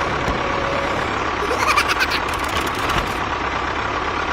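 A small motor running steadily, with a faint steady whine and a short run of light clicks about two seconds in.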